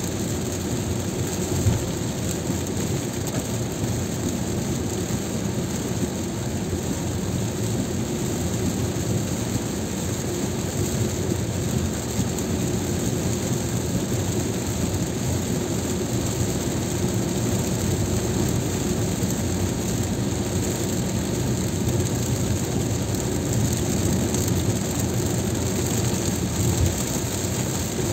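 Steady noise of a car driving in heavy rain: tyres on wet pavement and rain, with no distinct events.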